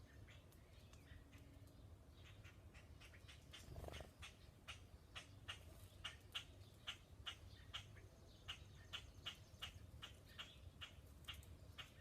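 Faint, rapid run of short, sharp chip calls from a small animal, about four or five a second, starting about two seconds in, with one lower, louder call about four seconds in.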